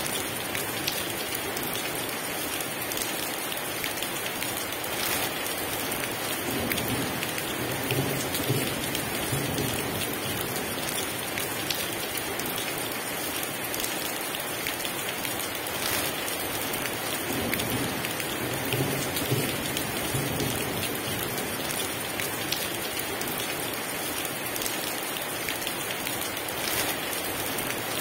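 Heavy rain falling steadily, with low rumbles of distant thunder coming and going a few times.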